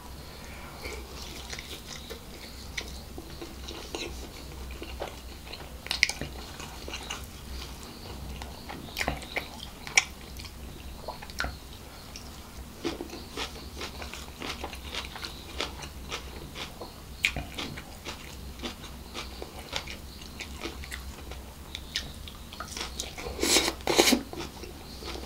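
Close-up eating by hand: a man biting and chewing mouthfuls of fried rice, coleslaw and barbecue chicken, with many short sharp mouth clicks. A louder cluster of sounds comes near the end as his fingers scoop up more rice from the box.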